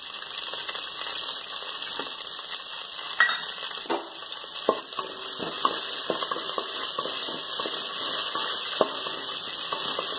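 Shallots, green chillies and curry leaves sizzling steadily in hot oil in a metal pot. A wooden spatula stirring them gives scattered taps and scrapes against the pot.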